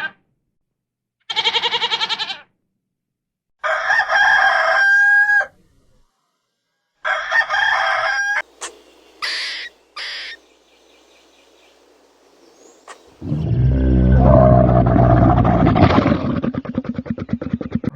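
Roosters crowing, two long crows each ending in a held note, followed by short high calls, and near the end a long, loud, low-pitched animal call.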